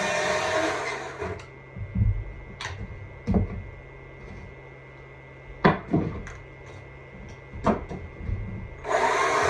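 Stihl MSA 200 C battery chainsaw running, then falling silent about a second in. While it is stopped there are several sharp knocks and clicks. The saw starts running again near the end.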